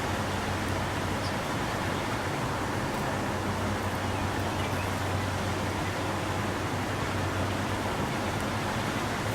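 Steady outdoor background noise, an even hiss with a low hum underneath, and no bird calls standing out.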